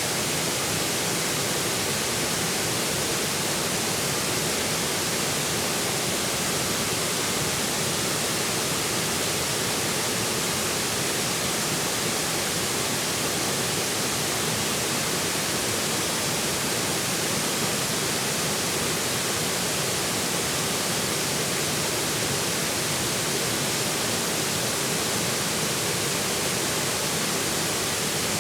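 Forest river flowing steadily: a constant, even rush of moving water.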